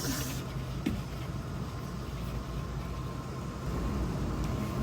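Steady low drone of a car heard from inside the cabin, engine and road noise. A short rustle comes at the start and a click about a second in.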